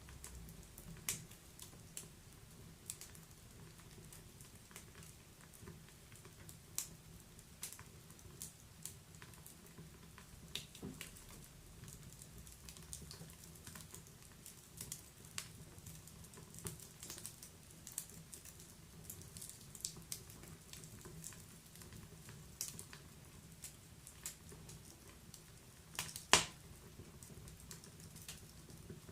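Wood fire in a fireplace crackling: irregular small snaps and ticks over a low steady rumble, with one louder pop late on.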